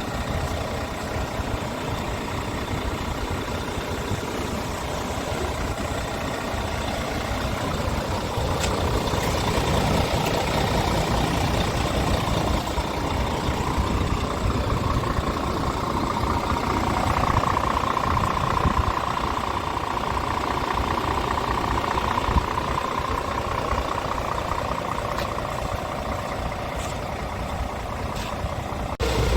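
Diesel engine of a Scania R tractor unit running at idle. A mid-pitched tone swells and fades away through the middle.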